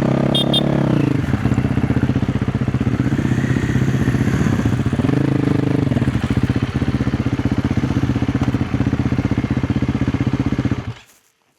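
KTM 350 XC-F's single-cylinder four-stroke dirt-bike engine running under throttle on a trail ride. The revs swell and drop back at the start and again about five seconds in, then the sound cuts off abruptly near the end.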